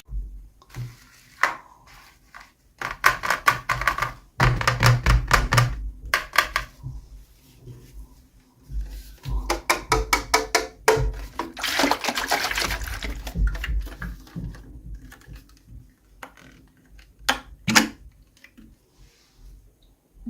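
Hands unboxing and handling small toys and their packaging: irregular clicks, taps and crinkling in bursts, with two sharp clicks near the end.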